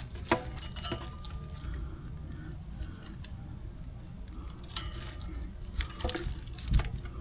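Dry twigs and firewood handled and piled onto a campfire, with scattered snaps and knocks.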